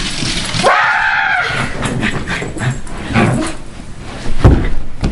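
A pet dog whining once, a pitched cry that rises and falls about a second in, followed by scattered clicks and a few loud thumps near the end.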